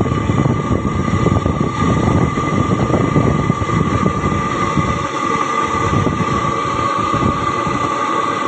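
Heavy ore haulage trucks running, a rough low rumble with a steady high-pitched whine over it. The rumble eases off a little about halfway through.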